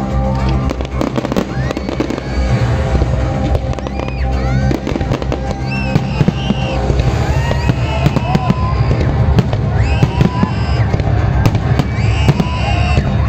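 Aerial fireworks bursting: repeated bangs and crackles, growing denser in the second half, over loud music, with people's voices in the crowd.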